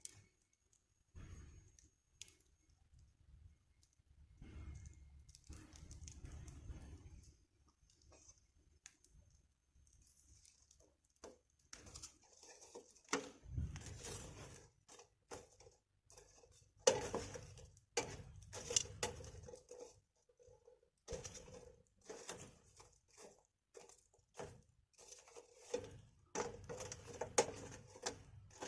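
Wood fire burning in a small fire pit, crackling with irregular sharp pops and snaps that grow denser and louder in the second half, with a low rumble at times.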